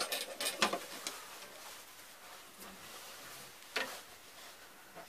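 Light clicks and taps of a pencil and ruler being handled on a drawing board, several together in the first second and one more near four seconds in.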